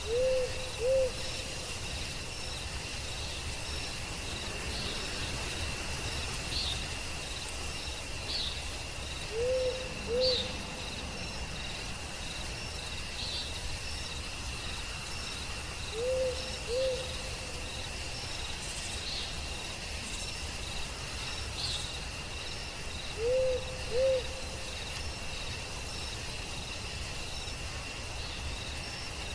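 An owl hooting in pairs of short notes, four pairs about seven seconds apart, over the steady high trill of crickets and other night insects.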